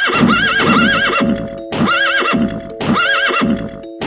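Horse neighing over a bouncy, evenly repeating children's music loop.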